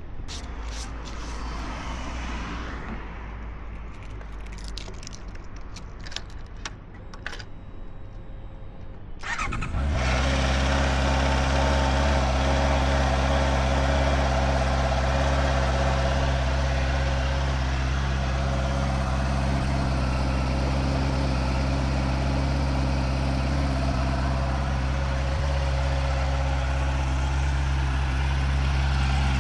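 A few sharp clicks and light rattles, then about ten seconds in the Honda CBR650R's inline-four engine starts and settles into a steady idle.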